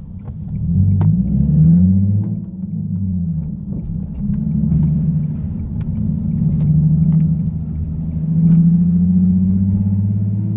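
Nissan Fairlady Z (Z34) VQ37 V6 engine running under load while driving. Its note rises and falls several times as the car accelerates and eases off. A few sharp clicks are scattered through it.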